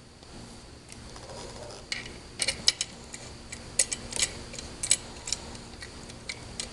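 A run of sharp, irregular clicks and light knocks, most of them between about two and five seconds in.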